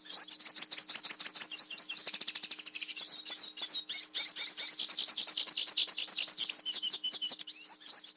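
Hen Belgian canary singing a long, unbroken run of fast trills and chirping notes, with a faint steady hum underneath. The keeper says she sings this much when she is ready to brood.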